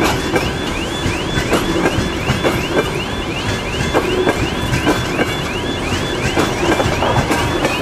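Open freight wagons rolling past, their wheels knocking at irregular moments over the rail, under a high electronic warning tone that sweeps upward over and over, about three times a second.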